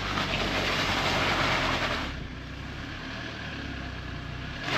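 Jeep engine running at low speed while crawling up a rocky off-road trail. The rougher noise over the engine hum drops away about two seconds in.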